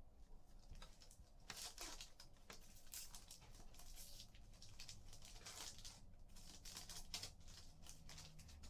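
Faint, irregular rustling and sliding of trading cards being handled and flipped through a pack.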